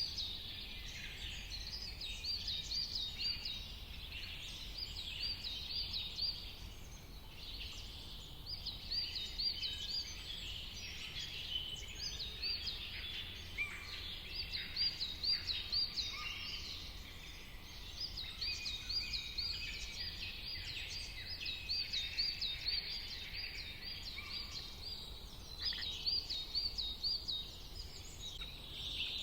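Several songbirds chirping and singing together, one of them repeating a quick run of high looping notes in phrases over and over, over a steady low background noise.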